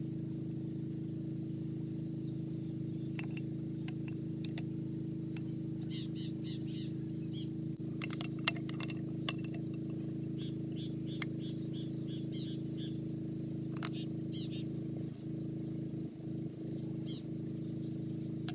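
A steady low mechanical hum holding one constant tone, with small birds chirping in short clusters over it and a few sharp clicks.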